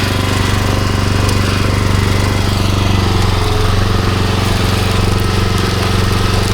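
Pressure washer engine running steadily under a constant hiss.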